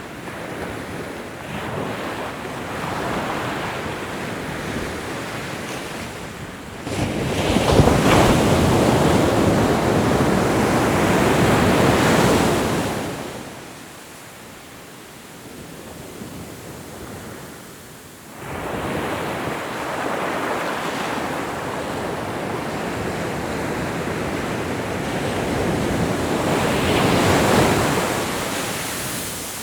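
Ocean waves breaking and washing up the shore, swelling and fading in long surges. A loud surge comes about a quarter of the way in, then a quieter lull, then the waves build again to another peak near the end.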